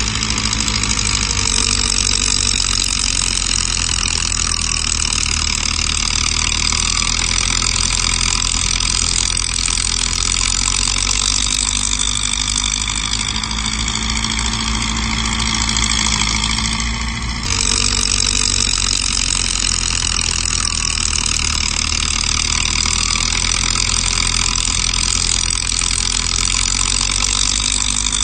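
Heavy diesel construction machinery running steadily, with a deep engine drone under a layered high-pitched whine. The sound changes abruptly about two-thirds of the way through, then carries on the same way.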